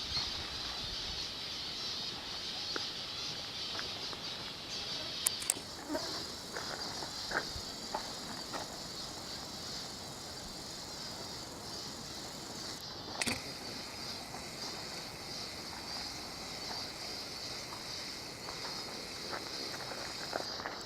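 Steady high-pitched insect chorus, a continuous trill-like hiss, with scattered short clicks and taps.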